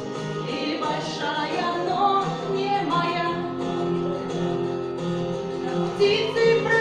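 A woman singing a song over instrumental accompaniment with held chords and guitar.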